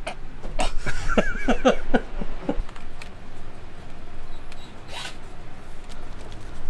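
An animal's short whining cries, several in a row, each gliding up and down in pitch, over the first two and a half seconds. A brief rasp follows about five seconds in.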